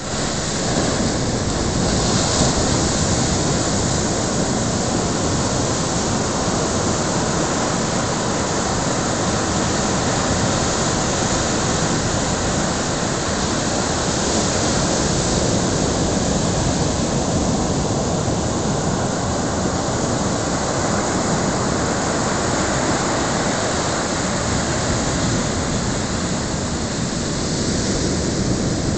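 Storm surf from an approaching typhoon breaking on a sandy beach, heard with strong wind, as a loud, continuous roar. The low end rumbles unevenly, like wind buffeting the microphone.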